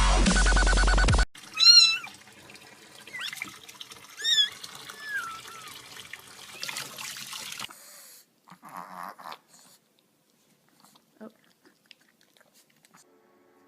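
Dubstep music cuts off about a second in, and then a cat meows a few times in short, high calls over a faint steady hiss.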